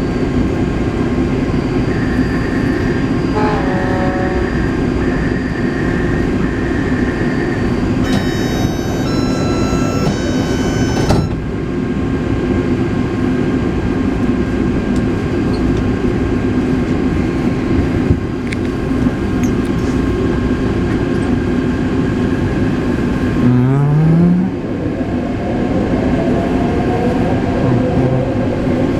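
Taipei Metro C381 train running on the line, a steady low rumble and hum of wheels and motors. A short run of high beeping tones comes about eight to eleven seconds in, and a brief rising whine near the end.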